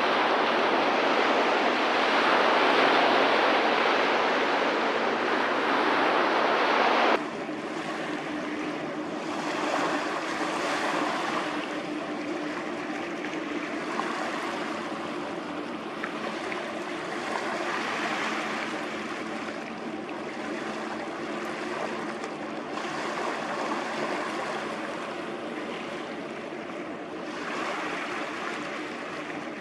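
Loud rushing of water and wind, cut off abruptly about seven seconds in. What follows is quieter: a steady boat engine drone under sloshing, splashing water that swells and fades every few seconds.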